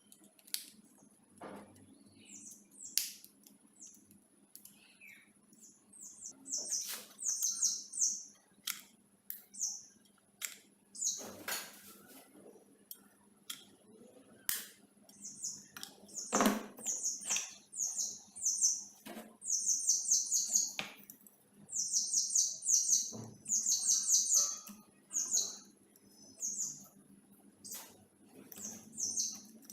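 Small birds chirping in quick bursts of short, high chirps, sparse at first and busier from about six seconds in. Scattered sharp clicks and knocks, the loudest about sixteen seconds in.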